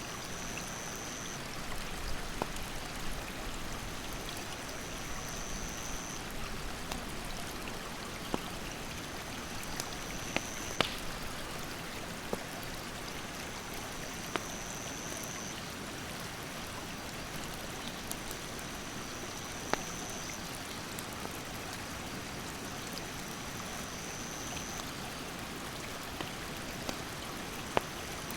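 Rushing stream water running steadily, with scattered sharp pops and snaps of firewood burning in a campfire. A high, steady call about a second and a half long repeats every four to five seconds.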